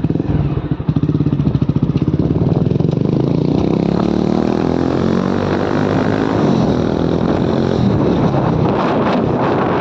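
Motorcycle engine just started, running in slow, distinct beats for about two seconds, then rising in pitch as it pulls away and running steadily under way.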